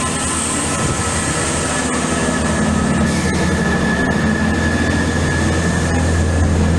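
Train running at a station platform: a loud, steady low drone, with a thin high tone from about two seconds in to near the end.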